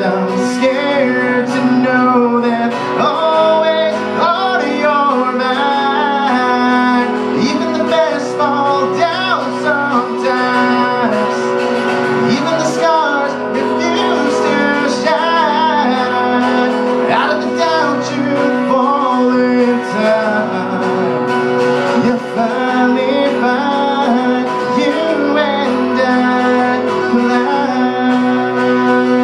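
Acoustic guitar strummed with a singing voice over it, one song played continuously.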